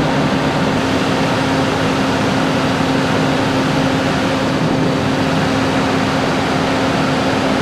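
Loud engine running steadily, with a constant droning hum over a rushing noise and no change in speed.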